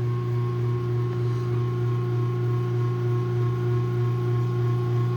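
Craftsman garage door opener running on its opening cycle after a remote press: the motor gives a steady, even electric hum with a faint regular pulse.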